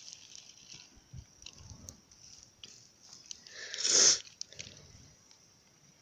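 A match struck against its box, flaring with a short hiss that swells and cuts off about four seconds in, amid small crackly handling noises.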